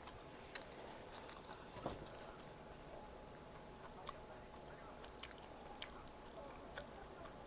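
Quiet close-miked chewing and eating of food, with small sharp mouth clicks about once a second.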